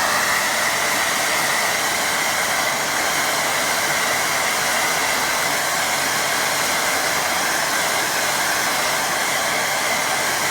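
Hand-held hair dryer blowing steadily to dry wet watercolour paint: a constant rush of air with a steady whine in it.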